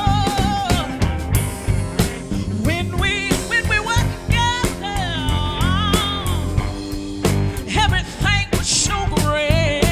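Live band playing an instrumental stretch: a lead melody line that bends and wavers in pitch over drums, bass and keys.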